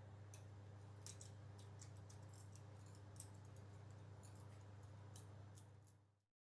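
Near silence: a steady low hum with faint, scattered light clicks, fading out about six seconds in.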